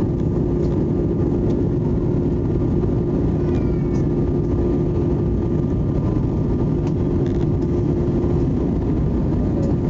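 Steady cabin noise of an Airbus A320 airliner in flight: a constant engine and airflow rumble with a steady mid-pitched hum.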